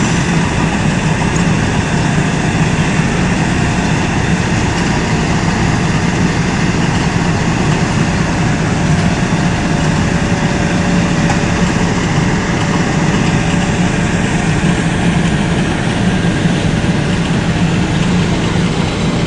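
Heavy road-repair machinery with its diesel engine running steadily, a constant low engine note with no break.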